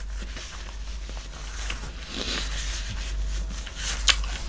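Close-miked chewing: soft mouth noises of eating, with a sharp click about four seconds in.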